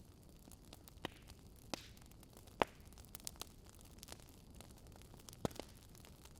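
Wood fire crackling: scattered sharp pops and snaps over a faint steady hiss, the loudest about two and a half seconds in and another near the end.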